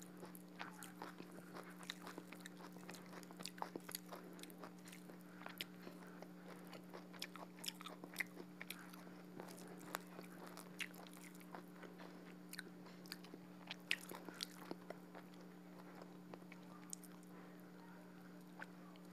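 Close-miked chewing and wet mouth clicks of someone eating duck curry and rice by hand, with scattered short clicks over a faint, steady electrical hum.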